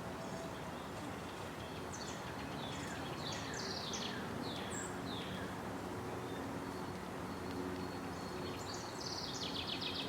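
Small birds chirping in a yard: many short, high, downward-sliding chirps, thickening into a quick cluster near the end, over a steady outdoor background hiss.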